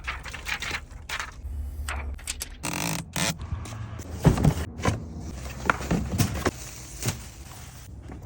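Small items being handled and put in place: an uneven run of clicks, taps and rustles, with a low rumble about two seconds in.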